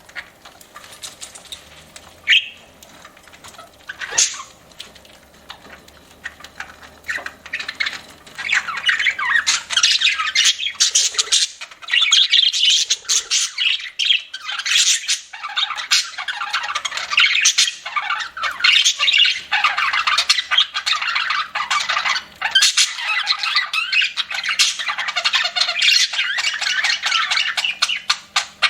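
Budgerigars chattering and squawking: a few scattered calls at first, then dense, continuous chatter from about eight seconds in.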